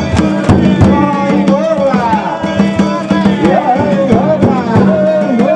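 Danjiri festival hayashi: taiko drum and hand gongs struck in a quick, steady rhythm, with a wavering melodic line over them.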